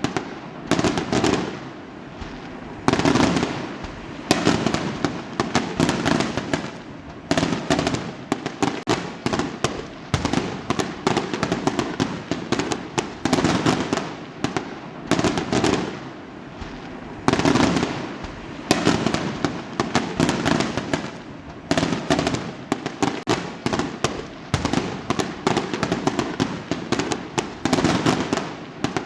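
Fireworks going off continuously: a rapid succession of sharp bangs and crackling bursts, a new loud burst every second or two.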